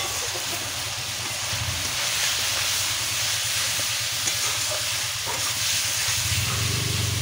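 Chicken mince, onions and spices frying in oil in a metal wok (kadai), sizzling steadily while a metal spatula stirs and scrapes the pan.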